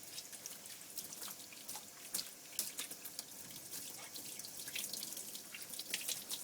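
Water running and splashing in a bath while a dog's coat is rinsed, with many small drips and splashes.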